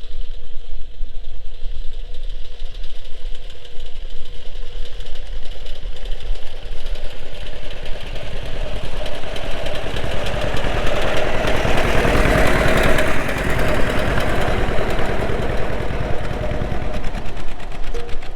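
Vintage tractor engine running steadily with a quick, even beat, growing louder for a few seconds in the middle before easing back.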